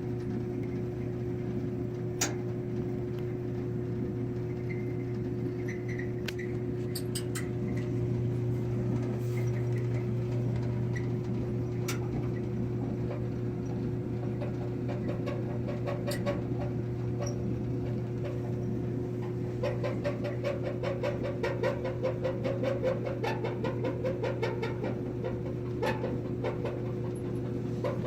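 Samsung clothes dryer running with a steady hum and scattered clicks, then, about two-thirds of the way through, a rapid run of squeaks that keeps going to the end.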